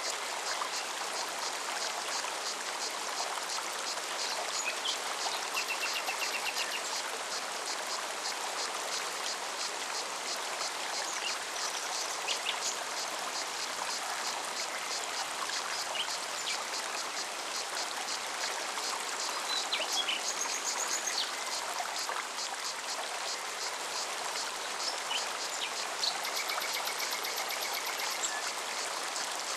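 Forest mountain stream flowing steadily, with a high, fast-pulsing cicada buzz throughout. Birds call a few times, with short trills about five seconds in and near the end.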